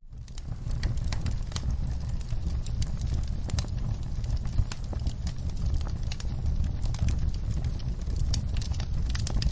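Wood fire crackling, with irregular sharp pops and snaps over a steady low rumble of the burning logs; the sound fades in from near silence at the very start.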